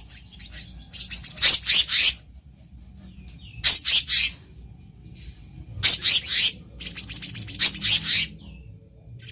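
Black-naped monarch calling: four quick bursts of rapid, sharp, high chattering notes, with short pauses between them.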